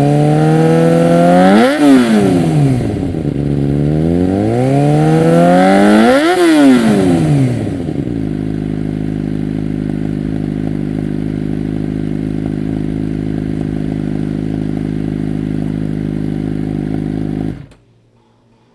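Suzuki GSX-R600 inline-four with a Yoshimura exhaust, blipped twice: the revs climb and fall back about 2 and 6 seconds in. It then idles steadily until the engine is switched off and stops suddenly near the end.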